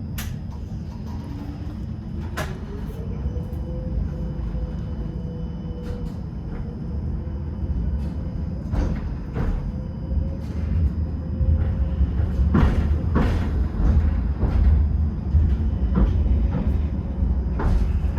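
Electric tram running on rails: a low rumble with a motor whine that rises in pitch over the first few seconds as it gathers speed, then holds steady. In the second half the rumble grows louder, with a run of sharp clacks from the wheels over the track.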